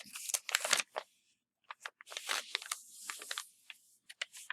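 A sheet of paper being handled and folded, rustling and crinkling in irregular bursts.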